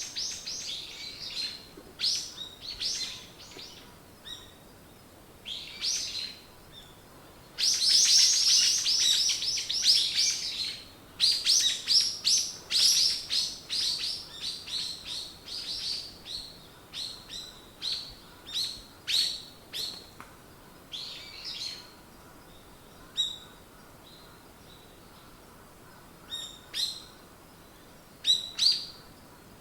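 Small songbirds chirping and singing in phrases of quick, high, downward-sweeping notes. A dense, rapid run of loud chirps comes about eight seconds in, followed by sparser phrases with short pauses between them.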